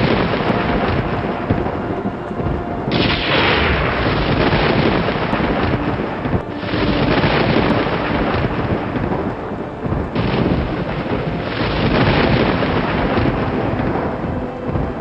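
Thunderstorm thunder: crack after crack rolling into long rumbles, with fresh crashes about 3, 6.5 and 10 seconds in, each slowly dying away.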